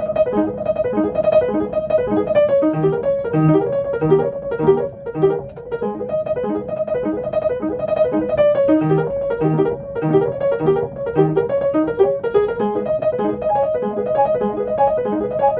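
Background piano music: a steady flow of quick, evenly paced notes over a repeating bass figure.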